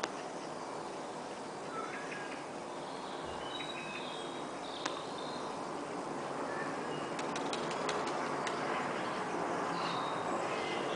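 Airbus A321-232 airliner on descent, its IAE V2500 engines a steady rumble that grows slowly louder as it approaches. Small birds chirp now and then over it.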